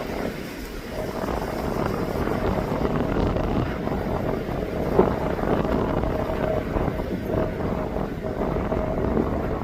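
Airliner jet engine noise, a steady rumble with a held mid-pitched tone, with wind buffeting the microphone; a brief sharp knock about five seconds in.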